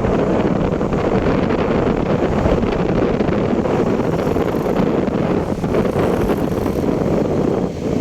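Steady wind buffeting the microphone, with the rumble of a moving vehicle on the road underneath it.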